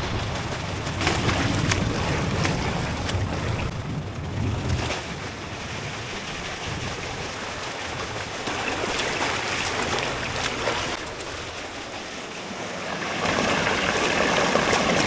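Splashing water from a swimmer churning through a fast length of a pool, with wind rumbling on the microphone in the first few seconds and the splashing louder near the end.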